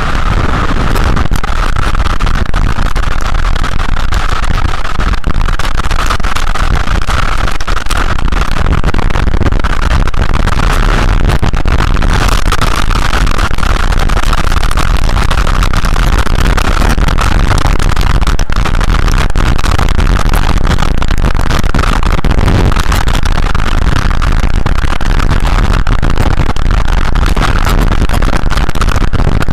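Steady, loud storm noise: rain coming down hard, with a deep wind rumble on the microphone.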